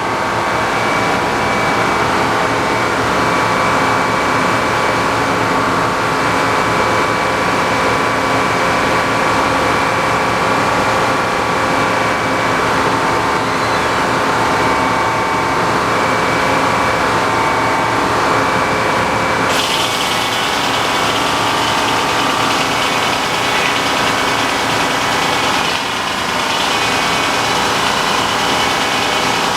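Tractor-driven sawmill cutting a 1.5-inch board off a log: the tractor engine runs steadily under the saw's ringing whine and the rasp of the blade through the wood. About two-thirds of the way through, the cutting noise suddenly turns harsher and brighter.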